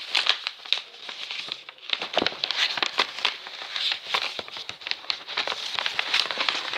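A sheet of paper being folded and creased by hand into a paper airplane, rustling and crinkling with quick, irregular crackles.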